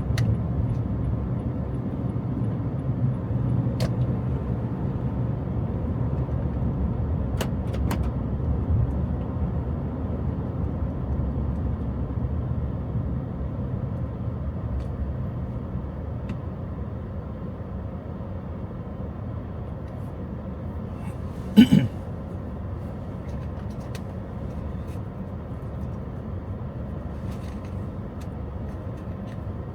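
Steady low rumble of a car driving, heard inside the cabin, easing a little about halfway through. About two-thirds of the way in there is one brief loud sound with a short rising pitch.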